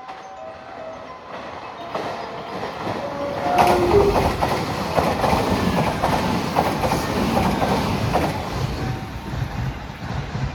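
A train running past on the track, its wheels clicking over the rail joints. It grows louder over the first few seconds, is loudest about four seconds in, then slowly eases off.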